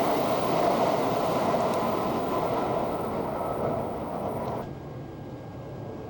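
E1 series Shinkansen train running by, a steady rush of train noise that slowly fades, then drops off sharply about four and a half seconds in, leaving a quieter background hum.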